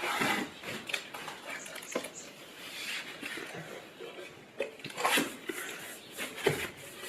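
Scraping and knocking of an aluminium battery-cell holder being forced through a plastic battery shell, irregular, with louder knocks about five seconds in and again a second and a half later. It is stiff to move because it is held by glue.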